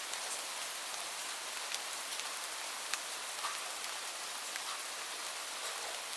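Steady rainfall hissing, with scattered individual drops ticking sharply on a surface.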